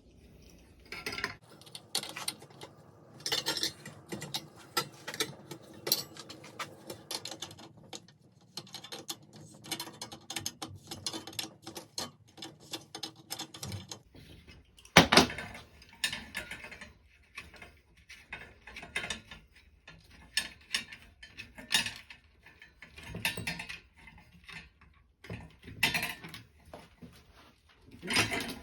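Irregular metallic clicking and rattling of hand tools and metal parts as a ceiling fan is taken apart and a nut is worked loose, with one sharper knock about halfway through.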